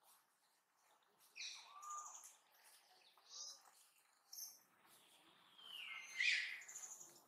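Birds chirping and calling: a series of short high chirps, then a louder call sliding downward in pitch about six seconds in.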